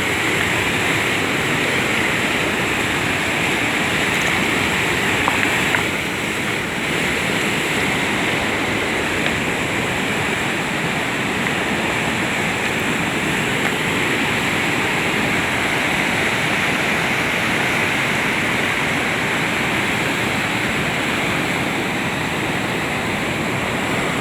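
Mountain river rushing and churning steadily over rocks, a constant loud roar of fast water.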